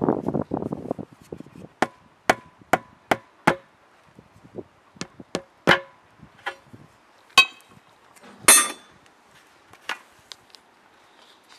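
About a dozen hammer blows on a steel tractor wheel rim during a tyre change, struck one by one in an uneven rhythm, several ringing out with a metallic tone. They follow a second of scraping at the start, and one heavier clanging strike comes near the end.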